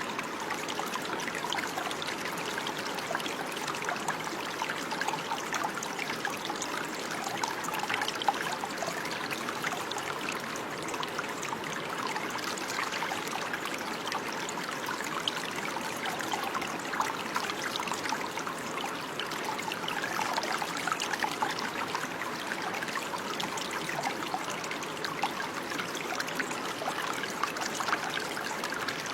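Running water, a stream trickling and babbling steadily.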